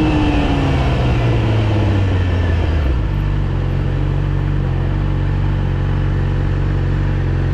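Yamaha R6's inline-four engine with its revs falling over the first three seconds, then settling to a steady idle.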